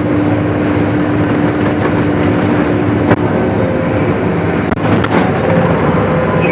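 Case IH swather running steadily while cutting hay, heard from on board the machine. A faint steady hum fades out about three seconds in, and there are a couple of brief sharp clicks.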